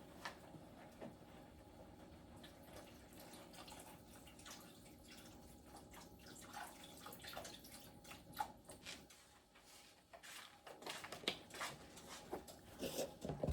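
Chicken broth being poured into a pot, a faint steady trickle that stops about nine seconds in, followed by a few light clicks and knocks.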